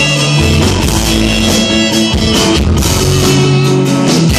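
Live country-rock band playing an instrumental break with no singing: electric guitar over held bass notes and a drum kit with steady cymbals.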